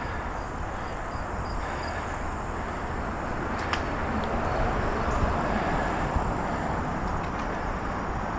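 Steady rumble and hiss of riding a bicycle outdoors, mostly wind buffeting the microphone with road noise under it. The noise swells a little in the middle, with a faint click a little under four seconds in.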